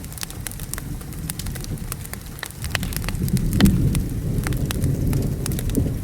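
Wood fire crackling and popping with steady rain, and a low thunder rumble swelling about halfway through.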